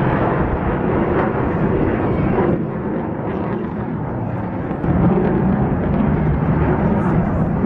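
Military jet aircraft engine noise: a loud, steady rumbling roar that grows louder from about five seconds in.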